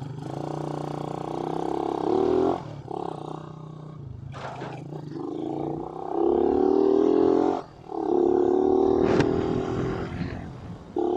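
Suzuki Raider 150 motorcycle engine accelerating, its pitch climbing and then dropping twice at gear changes.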